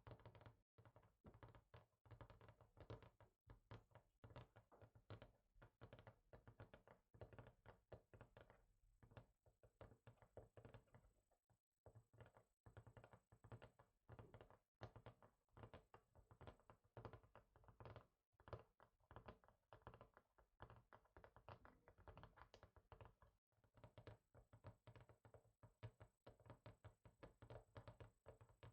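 Quiet fingertip tapping on a hard surface: quick, irregular taps, several a second, with a few brief pauses.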